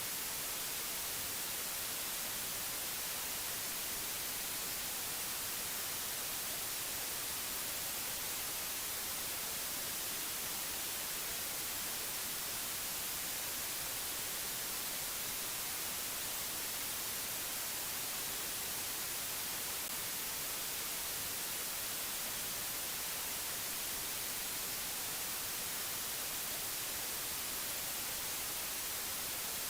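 Steady, even hiss of white noise, strongest in the treble, with no change or break.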